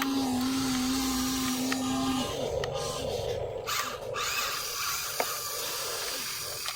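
Small electric motors of radio-controlled toy excavators whirring as the arms and buckets move, with a steady held tone for about the first two seconds. A single sharp click about five seconds in.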